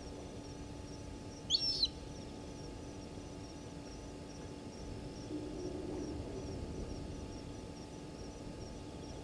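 Night bush ambience at a waterhole: a steady, regular high-pitched chirping keeps going throughout. A short, sharp bird call, the loudest sound, comes about a second and a half in.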